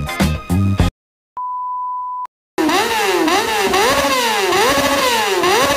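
Background music cuts off, then a steady one-second electronic beep. After a short pause a motorcycle engine is revved over and over, its pitch climbing and dropping about twice a second.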